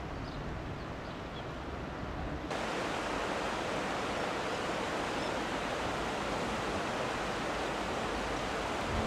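Steady rush of flowing water. About two and a half seconds in it switches abruptly to a louder, brighter rush.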